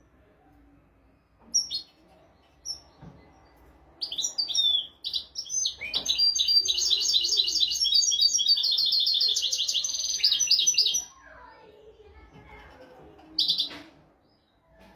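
European goldfinch singing. A couple of short high call notes come first, then a fast twittering song of rapid trills lasting about seven seconds, and one more short call near the end.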